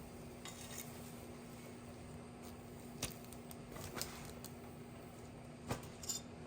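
Kitchen dishes and utensils clinking: a handful of light, sharp clinks and taps spread through, over a steady low hum.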